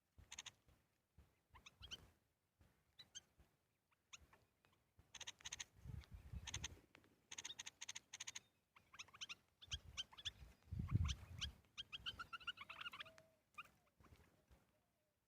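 Small birds chirping in short, high, repeated calls, with a few dull thumps mixed in, the loudest about eleven seconds in.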